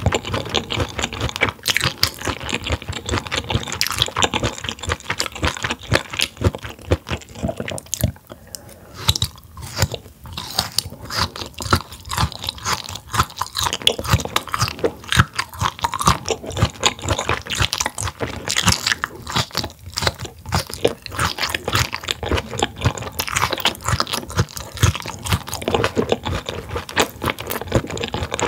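A person chewing food close to the microphone: many small crunches close together. They ease off briefly about eight seconds in, then pick up again.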